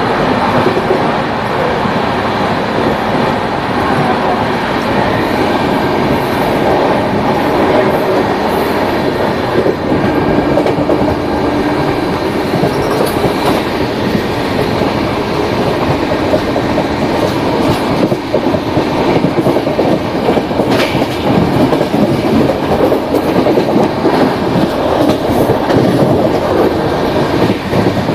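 Rajdhani Express passenger train running at speed: a steady rumble with wheels clattering over the rails and a few sharp clicks.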